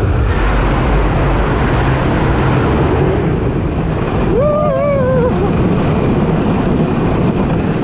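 Wooden roller coaster train running over its track: a steady loud rumble and clatter of the wheels mixed with wind rush. About halfway through there is a short wavering cry.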